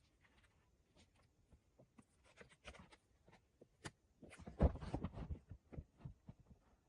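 Scattered knocks and taps of hand work while fixing a metal roof sheet, with a quick run of heavier thuds a little past the middle.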